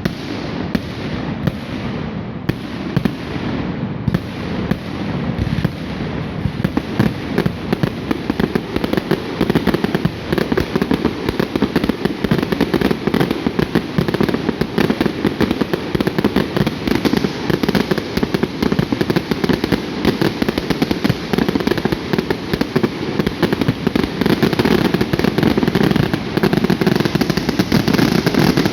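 Fireworks display going off in a dense, continuous barrage of bangs and crackles, separate pops at first, then thickening into a steady, louder volley after about six seconds.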